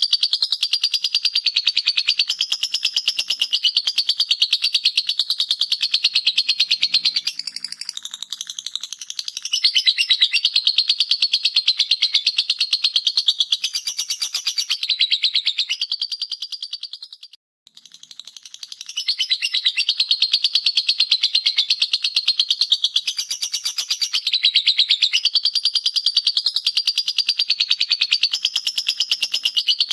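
Lovebird singing its long 'ngekek' song: a fast, unbroken, high-pitched chattering trill that softens briefly about a quarter of the way in and stops for a moment a little past the middle before carrying on.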